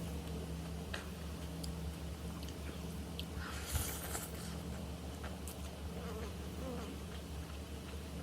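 A person chewing and eating, with scattered small mouth and utensil clicks and a brief louder noisy crunch or rustle about three and a half seconds in, over a steady low hum.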